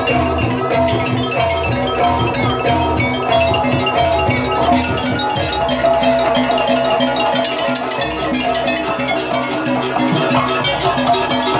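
Banyuwangi jaranan ensemble music: tuned metal percussion and drums play a fast, dense, steady rhythmic pattern. The deep low part thins out about halfway through.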